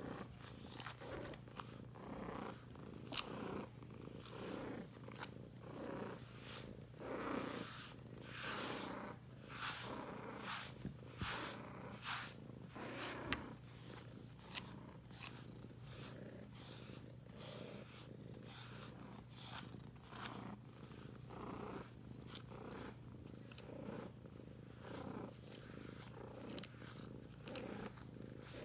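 Domestic cat purring steadily while being brushed, with short swishes of the brush through its fur about once a second.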